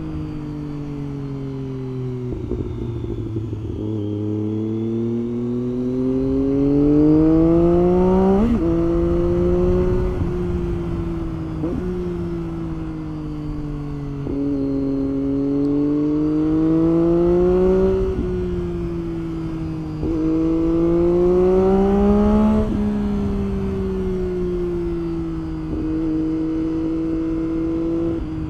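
Triumph Street Triple 675's inline three-cylinder engine under hard riding, its pitch climbing with the revs and dropping sharply at gear changes, then easing off and pulling again several times.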